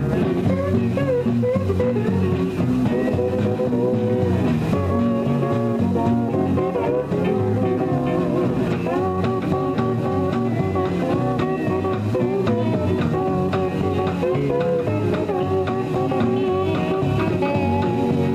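Country band playing an instrumental break between verses, with a guitar carrying the lead.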